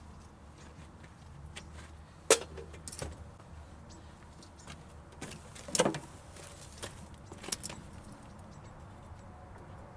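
Scattered metallic clicks and clinks of tools and parts being handled, with two sharper knocks about two seconds and about six seconds in, over a low steady hum.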